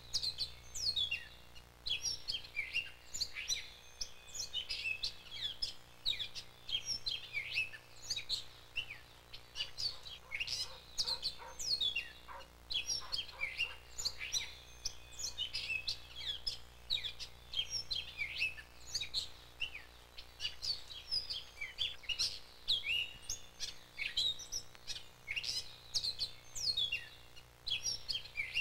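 Many small birds chirping at once, a dense, unbroken run of short, quick calls, over a faint steady low hum.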